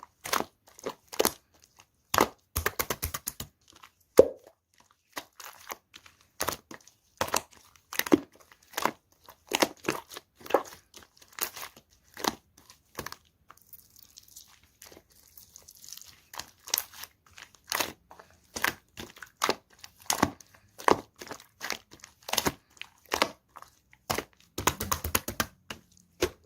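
Clear slime being pressed, poked and folded by hand, giving sharp wet clicks and pops one or two a second. There is a quieter pause in the middle and a quick run of pops near the end.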